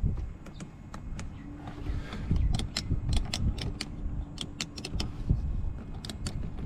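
Audi A3 8P driver's door power window motor running for about four seconds, worked by the newly fitted window switch, with many sharp clicks of the switch and door parts around it.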